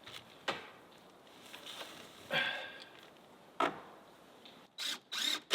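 A few separate knocks on wood, a second or more apart, during work on a wooden cabin roof, with a short scrape about two seconds in and two brief rustling bursts near the end.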